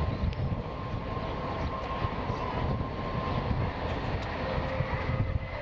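Jet engines of a Boeing 767-300ER airliner running: a steady whine over a dense low rumble.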